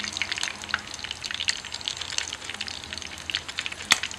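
Hot oil crackling and popping in a pan as pieces of sun-dried field rat fry, with one sharp click near the end.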